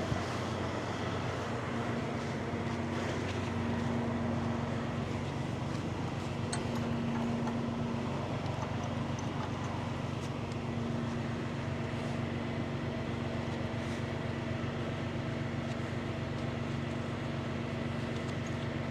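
Tow truck engine idling, a steady low hum that holds unchanged.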